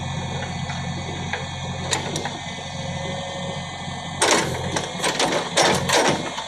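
JCB backhoe's diesel engine running with a steady low hum. About four seconds in, a run of loud rough clattering noises comes over it.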